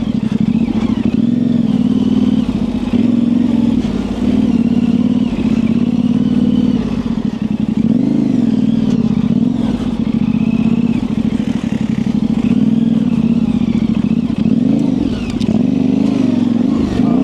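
Yamaha Ténéré 700's parallel-twin engine, fitted with an aftermarket high exhaust, running at low revs on a tight trail, its pitch rising and falling as the throttle is opened and closed.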